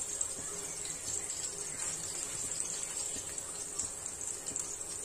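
Minced garlic and chili sizzling in olive oil in a wok over a gas flame: a steady hiss with small crackles.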